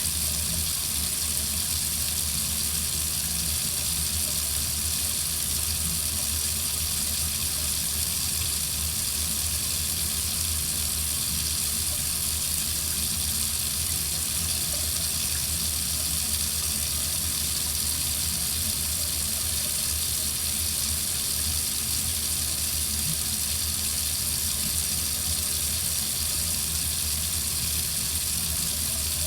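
Water running steadily from a tap into a sink, an even splashing hiss that does not change.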